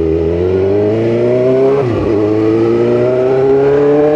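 Motorcycle engine accelerating, its note climbing through one gear, then dropping at an upshift about two seconds in and climbing again in the next gear.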